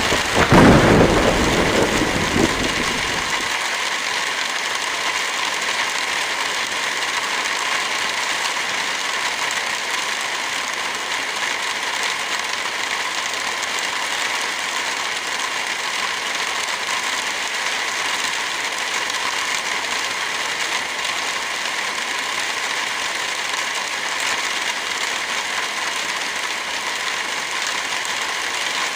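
Heavy rain falling in a steady, even hiss. In the first few seconds a loud low rumble swells up and dies away.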